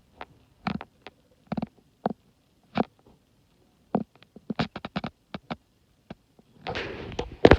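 Footsteps crunching in snow: a string of short, uneven crunches about one or two a second, quicker for a moment in the middle, with a rush of rustling noise near the end.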